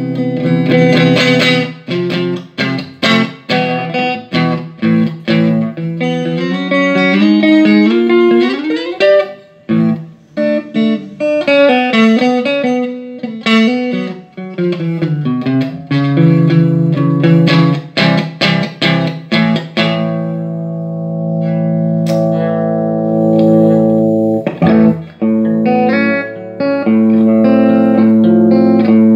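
Electric guitar played through a Laney Ironheart IRT30 valve amplifier: picked notes and chords, a rising run of notes about eight seconds in, and long held, ringing chords later on. The signal carries through without cutting out, the amp having had its input jack, effects-loop and attenuation-switch solder joints redone and its bias lowered.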